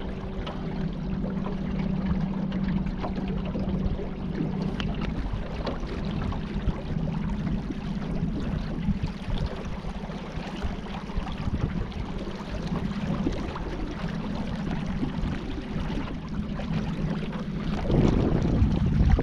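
Water lapping and splashing against a small boat on a river, with many small irregular splashes. A steady low hum is heard strongly for the first few seconds and then fainter, and a gust of wind buffets the microphone near the end.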